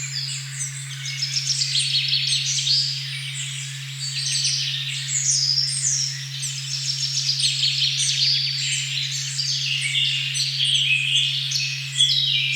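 A dense chorus of songbirds chirping and trilling in a forest, over an unbroken steady low tone at 136.1 Hz.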